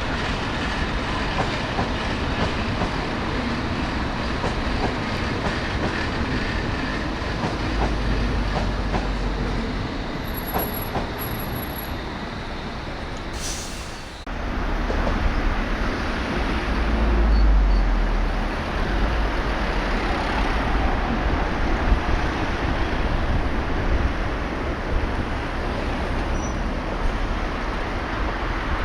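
A train moving through the station, a steady rumble of wheels on rails. About halfway through, the sound dips briefly and then breaks off sharply before the rumble resumes.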